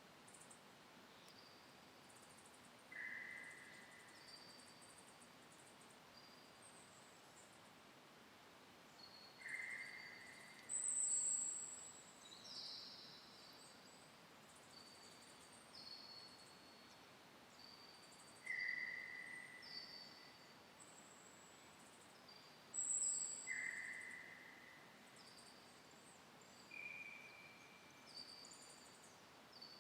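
Several wild birds calling in an early-morning forest: many short, high chirps and whistled notes at different pitches, with a lower note repeating every few seconds, over faint steady background hiss.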